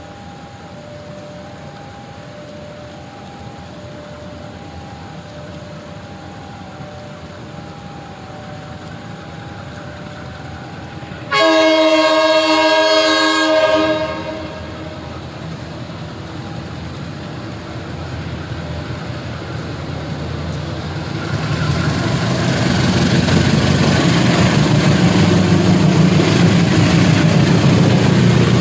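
A faint two-tone warning signal alternates steadily, then a diesel locomotive's horn gives one long blast of about two and a half seconds. The train then rumbles in, engine and wheels growing steadily louder as it comes close.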